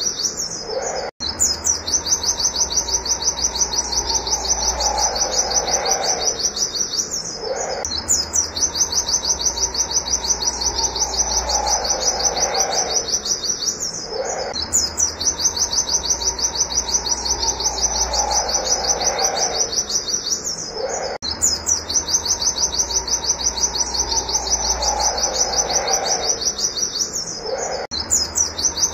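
Pleci (white-eye) singing its rapid 'wit wit' shooting song: fast runs of sharp, high repeated notes in long phrases, each lasting about six seconds and broken by a short pause. A lower sound slides downward under each phrase.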